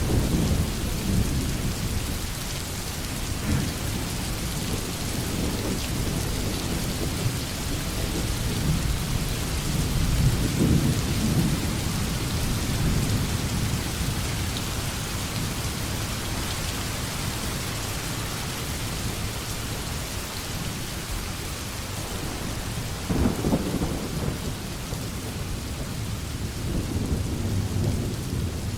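Heavy rain falling steadily, with low rolls of thunder swelling and fading several times, strongest about 23 seconds in.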